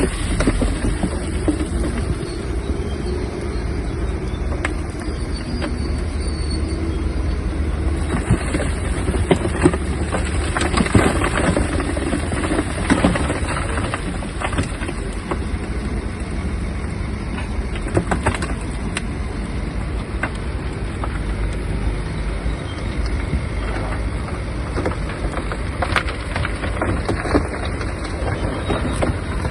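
Shantui DH17-C3 bulldozer working: a steady deep engine rumble with irregular clanks and cracks from the tracks and the dirt being pushed.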